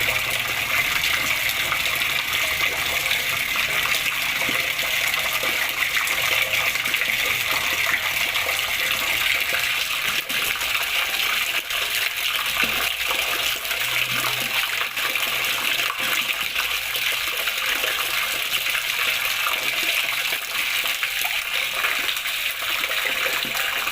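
Flowing water splashing and rushing steadily, a continuous even sound with no break.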